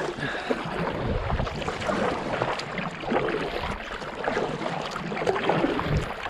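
Water splashing and lapping around a fishing kayak on a river, with some wind on the microphone.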